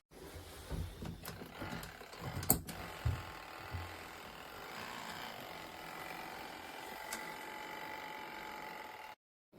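Small electric washing machine running: a few knocks and thumps over the first few seconds, then a steady motor hum with a held whine that cuts off suddenly near the end.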